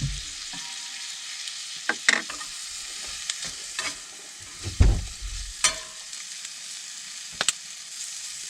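Sliced bratwurst and onions sizzling in a hot flat-top pan, with a steady frying hiss. A utensil clicks and scrapes against the pan every so often, and there is a duller thump about five seconds in.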